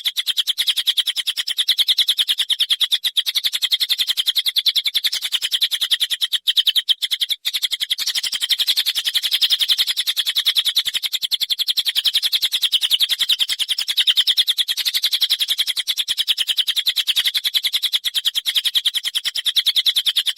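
A songbird singing a continuous, fast, high-pitched chattering trill of short repeated notes, the harsh rapid 'besetan' style used as masteran for competition birds. It breaks off briefly twice, about six and seven seconds in.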